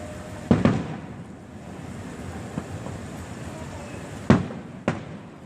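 Fireworks going off: a double bang about half a second in, then the loudest bang about four seconds in with another half a second after it, each echoing, over a steady rumble of the display.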